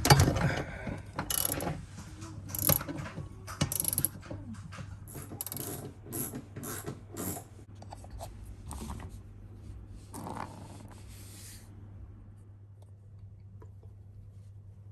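Hand tools working on washing-machine parts: a run of sharp ratchet-like clicks and short clattering knocks that stops about twelve seconds in, over a low steady hum.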